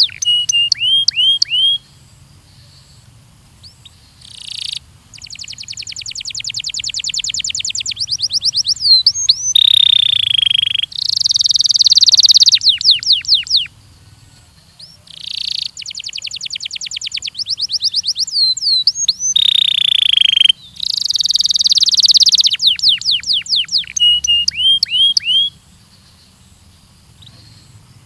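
A Belgian canary singing: loud phrases of fast, rapidly repeated trills and rolls mixed with gliding whistled notes. The phrases are broken by short pauses about two, fourteen and twenty-six seconds in.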